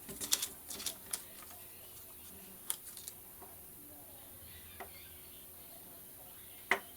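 Paper and craft supplies being handled on a tabletop: a quick cluster of crinkles and clicks in the first second, then a few scattered single clicks, the sharpest one near the end.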